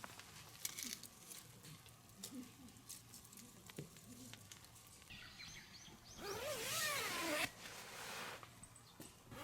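Scattered light clicks and taps, then a louder scraping rasp of a second or so about two-thirds of the way through.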